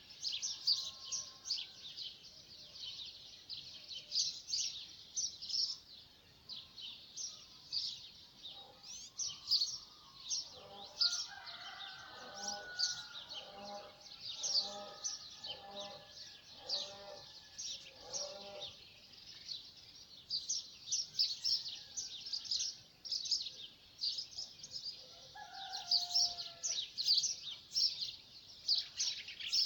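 Dawn chorus of many small birds chirping and singing at once, dense and continuous. Through the middle a lower-pitched call repeats about once a second, six or seven times, and another brief lower call comes near the end.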